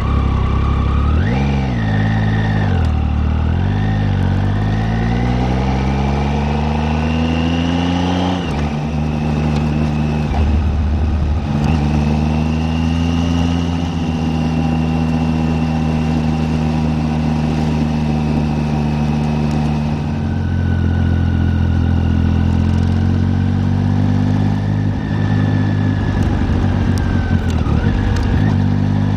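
Triumph Tiger 800's three-cylinder engine pulling away. It rises in pitch through the first gear, drops at a gear change about eight seconds in, then holds a steady cruising note with one more brief dip later on.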